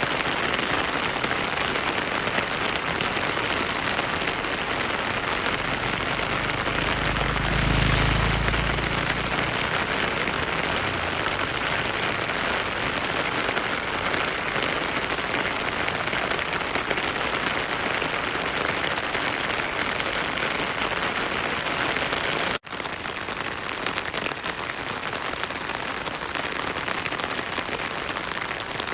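Heavy rain falling steadily, a dense even hiss of drops. A brief low rumble swells and fades about eight seconds in, and about three-quarters of the way through the sound cuts out for a split second and comes back slightly quieter.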